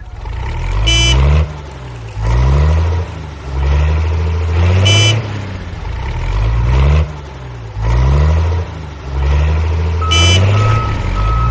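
Cartoon vehicle sound effects: a low rumble that swells and fades, with three short honks about 1, 5 and 10 seconds in. Near the end come a few short, evenly spaced reversing beeps.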